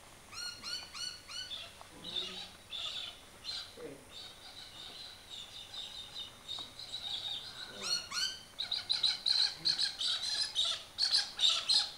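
Small birds chirping: a quick run of four repeated notes near the start, scattered chirps after it, and busier, faster chatter in the last few seconds.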